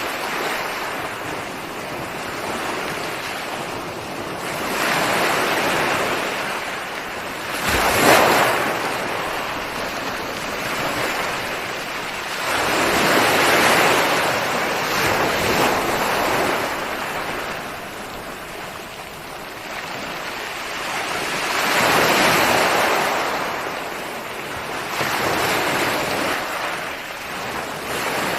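Ocean waves breaking and washing on a shore, the surf swelling and fading every few seconds, with one sharper crash about eight seconds in.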